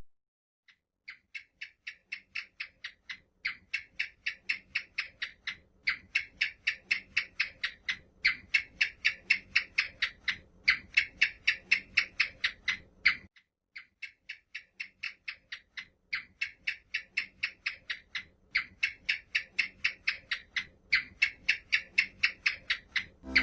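An animal call: a rapid train of short clicking pulses, about five a second, in runs of a few seconds, with a longer pause about thirteen seconds in.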